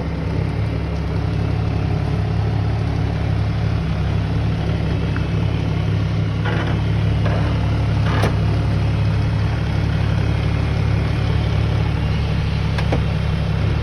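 An engine running steadily at idle, with a few short sharp knocks about six and a half, eight and thirteen seconds in.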